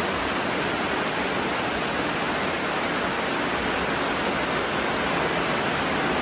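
Heavy rain pouring down, heard from under a corrugated metal roof: a steady, dense hiss.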